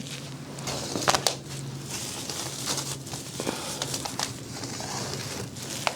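Plastic cling wrap crinkling and crackling as it is pulled off seedling flats, with scattered sharp clicks and a steady low hum underneath.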